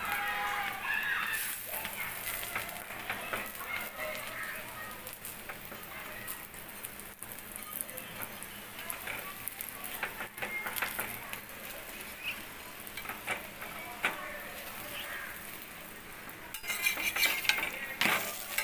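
Butter sizzling under an aloo paratha frying on a flat tawa, with a steel spatula scraping and tapping on the pan as the paratha is pressed and turned to crisp. The scraping gets busier and louder near the end.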